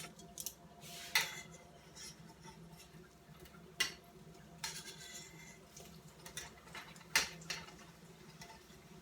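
Metal kitchen utensils clinking against a frying pan: a few sharp clinks, the loudest about a second in, near four seconds and just after seven seconds.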